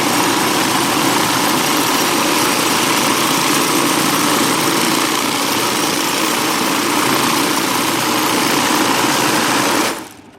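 Tumbler running loaded with abrasive media and small 4130 steel parts, a dense steady rattle as the media rounds the edges and removes burrs. It stops abruptly near the end.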